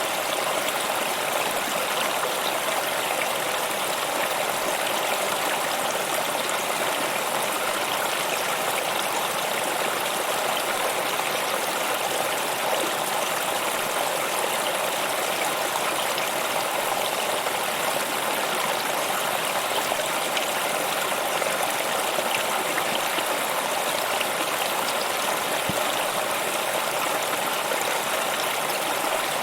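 Stream of running water flowing over rocks, a steady, even rush that does not change.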